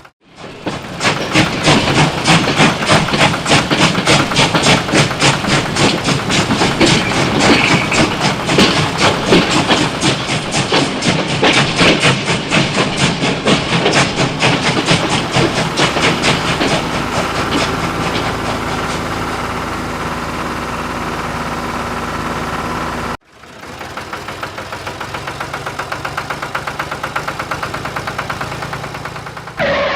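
Engine running with a fast, even chugging beat. It breaks off suddenly about 23 seconds in, then resumes a little quieter.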